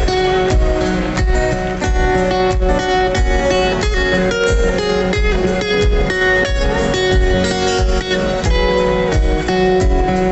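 Guitar music: quick plucked notes over a steady low beat.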